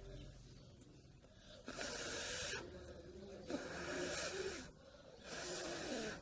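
Three long, breathy blows about a second each, someone blowing hard on smouldering campfire embers to try to get them to catch.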